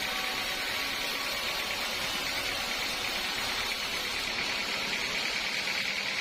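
Sawmill saw running steadily, a constant unbroken machine noise.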